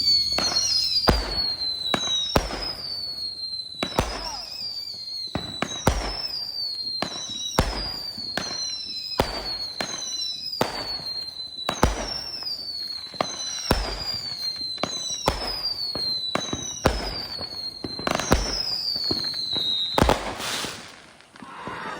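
A 200-gram consumer firework cake firing shot after shot, about one a second. Each shot is a sharp launch thump followed by a whistle that falls in pitch. The volley ends about twenty seconds in.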